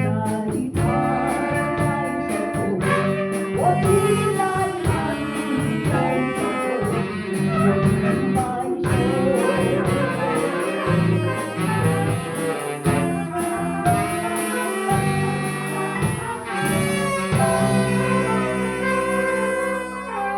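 A band rehearsing a tune, led by horns, with dense shifting notes, settling into long held notes near the end that start to fade.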